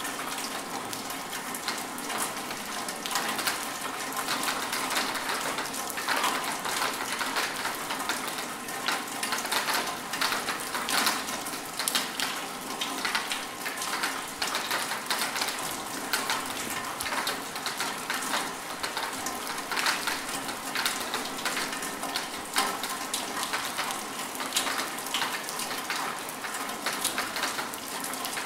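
Rain falling steadily, a dense patter of many separate drops with no let-up.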